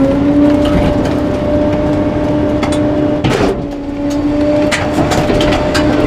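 Trash truck's engine held at raised revs, with a steady whine as the packer's hydraulics work. Scattered sharp cracks and knocks come from bulky items being crushed in the hopper, the loudest about three and a half seconds in.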